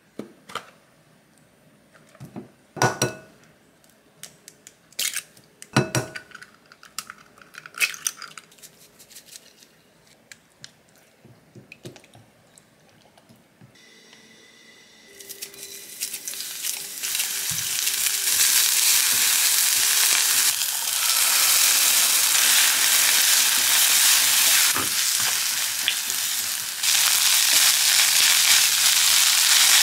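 A few sharp knocks and clinks of kitchen utensils, then from about halfway through a steady sizzle of egg fried rice frying in oil in a frying pan, stirred with a spatula. The sizzle grows louder again near the end.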